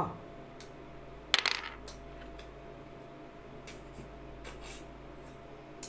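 Eating sounds from a man chewing a crunchy snack: a crisp, clicky crunch about a second and a half in, then a few faint clicks and small crunches as he keeps chewing.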